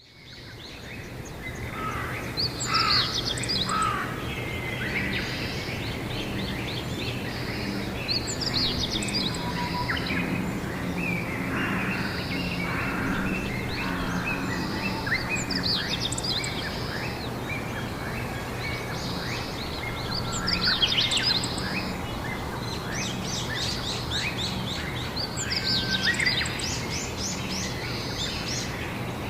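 Songbirds singing outdoors in spring, short phrases of quick chirps repeating every few seconds, over a steady low background hum. The sound fades in at the start.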